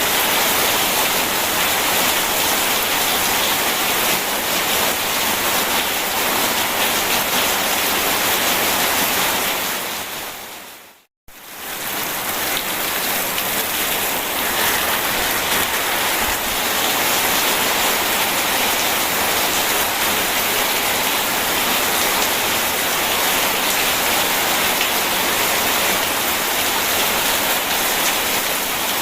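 Steady, dense rushing noise of rain and a flowing river. About a third of the way in it fades out to silence and comes straight back up within a second.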